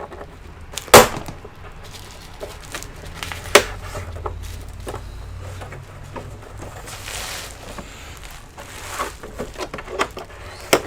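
Plastic back cover of an all-in-one PC being pried open: sharp snaps of its retaining clips letting go, a loud one about a second in and another a few seconds later, with a brief scrape and a run of small clicks near the end.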